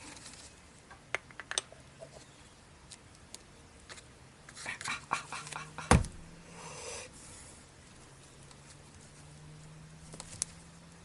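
Hand work on small parts and tools: scattered light clicks, a quick run of clicks about five seconds in and one loud thump around six seconds. Breaths close to the microphone and a faint steady low hum sit underneath.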